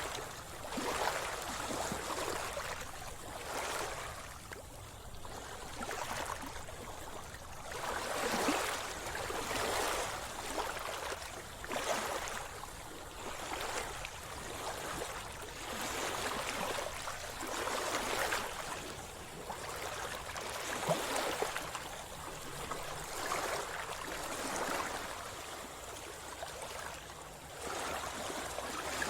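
Sea water splashing and sloshing in repeated swishes every second or two, each surge rising and falling away.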